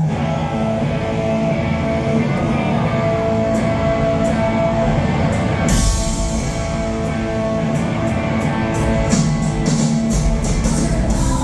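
Rock band playing live, starting a song with electric guitar; drums and bass come in fully about six seconds in.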